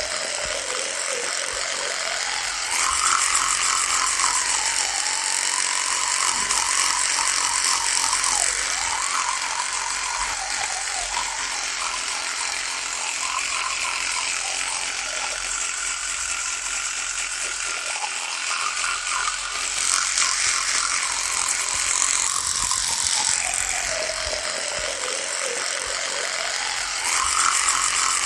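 Electric toothbrush buzzing without a break, its pitch sagging and rising again every few seconds as the loading on the head changes, with louder stretches now and then.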